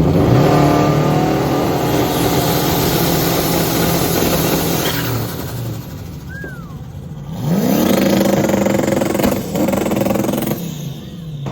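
Car engine revving hard: it climbs sharply right at the start and is held high for about five seconds, then drops back. A few seconds later it revs up again, holds with a short dip, and falls back to idle near the end.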